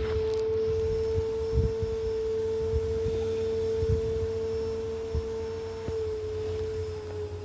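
Vacuum cleaner running with a steady motor whine over a low rumble, with a few soft knocks as the nozzle works over the sofa bed's upholstery; the whine dips slightly in pitch about six seconds in.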